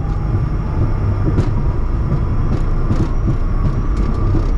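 Steady loud rumble of a Bombardier Challenger 350 business jet's Honeywell HTF7350 turbofans and airframe, with a faint steady whine above it and a few scattered light clicks.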